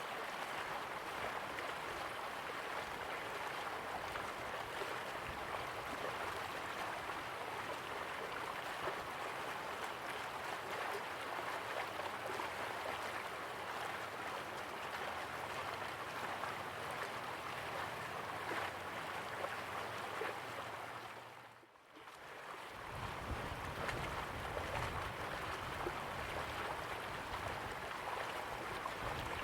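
River water flowing steadily, a continuous gentle rushing. About three quarters of the way through it fades briefly almost away, then comes back with a deeper low rumble.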